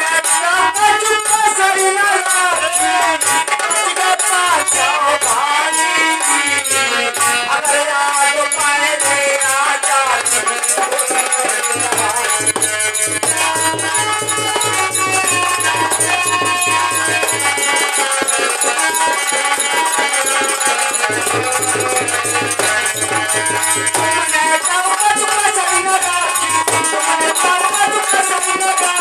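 Instrumental interlude of a Hindi devotional bhajan: a pitched melody instrument with a steady rattling, jingling percussion and a low drum beat that drops in and out.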